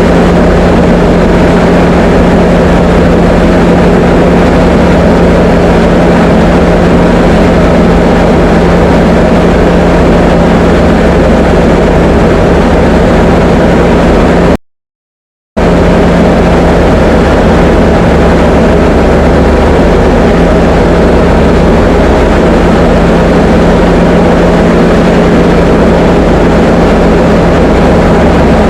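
Diamond DA20 light aircraft's piston engine and propeller running steadily, a loud constant drone with a steady low hum. The sound cuts out completely for about a second midway, then resumes unchanged.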